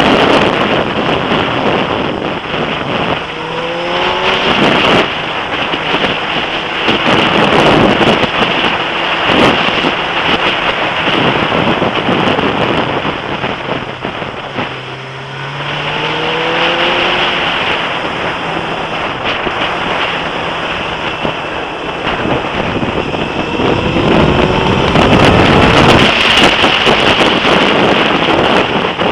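Suzuki GSX-R sport motorcycle engine pulling hard through the gears, its pitch rising three times as the revs climb, under heavy wind noise on the bike-mounted camera's microphone.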